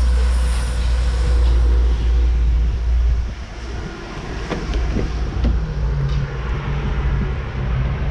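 A car driving: a heavy low rumble of engine and road noise that eases off about three seconds in, leaving a quieter steady hum with a few small clicks.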